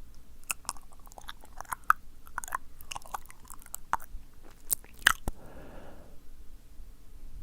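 Wet, sticky ASMR mouth sounds close to the microphone: an irregular run of tongue clicks and lip smacks, then a brief soft breathy hiss about five and a half seconds in.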